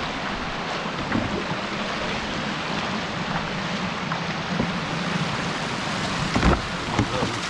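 Steady noise of flowing floodwater, with two short knocks or splashes near the end.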